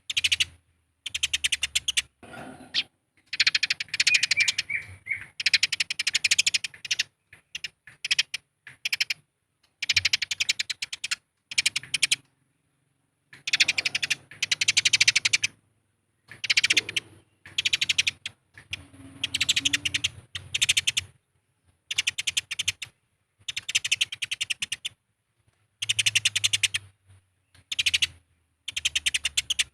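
Eurasian tree sparrows giving the rapid, harsh chattering calls of sparrows fighting, in repeated bouts of about a second with short gaps between.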